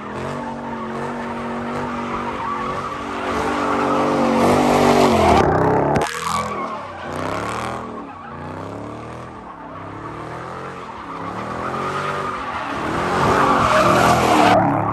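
Car engine held at high revs while the tyres screech through a burnout, then revved up and down over and over, about once a second, as the tyres keep spinning and squealing.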